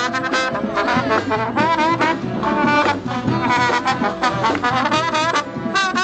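A college band playing live, with its brass section of trombones and trumpets to the fore in short, punchy phrases.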